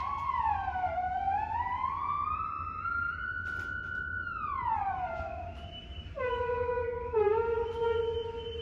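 Dogue de Bordeaux howling: a long note that rises, holds high, then slides down, followed about six seconds in by a lower, wavering note.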